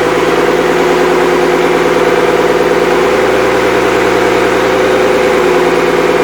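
Freshly rebuilt Cummins 5.9L 12-valve inline-six turbo diesel running steadily on its first run after the rebuild.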